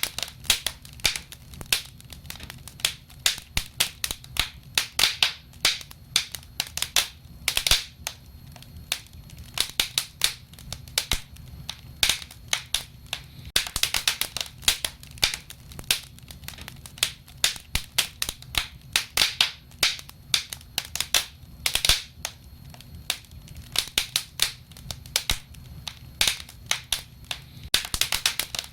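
Burning wood fire crackling and popping: many irregular sharp snaps, several a second and some louder than others, over a low steady rumble.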